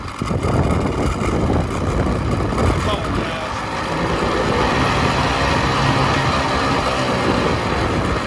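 1989 Evinrude 50 hp two-stroke outboard motor running steadily while warming up, with the loose plastic "50" badge on its motor cover rattling; the rattle is from that badge, not a failing engine. Wind buffets the microphone.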